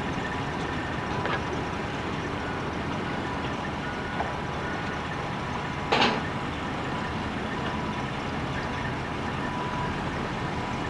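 Steady rumble of vehicle engines, with a faint steady high tone coming and going and a single sharp knock about six seconds in.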